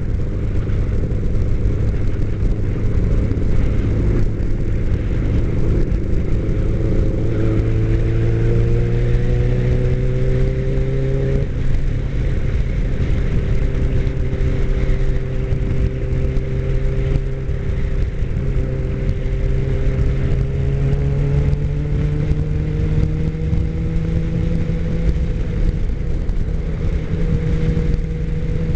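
Motorcycle engine running under way, with low rumbling road and wind noise. Its note changes abruptly about a third of the way in, then climbs slowly through the second half as it speeds up.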